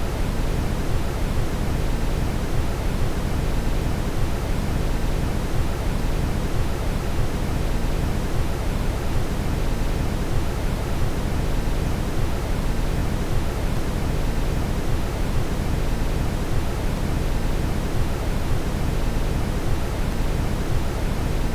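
Steady brown noise: an even, deep rushing hiss strongest in the bass, with no pitch, rhythm or change.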